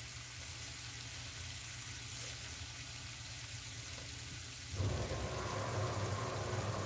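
Broccoli and potatoes sizzling softly in a stainless steel pan on low heat, a steady hiss. About five seconds in, a low hum joins it and it gets slightly louder.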